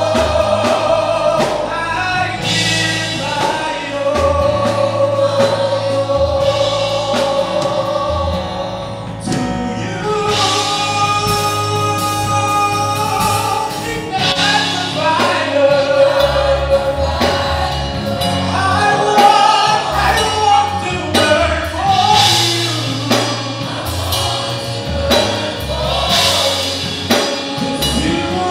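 Gospel praise-and-worship song sung by a choir with sustained, sliding vocal lines over a band's bass and drums.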